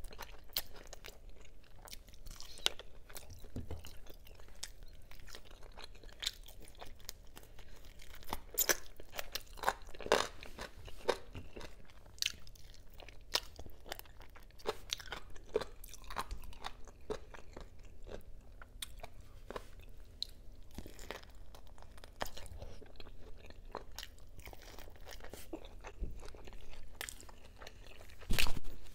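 Close-miked chewing and mouth sounds of a person eating adobo meat with the fingers: many short sharp clicks, with one louder hit just before the end.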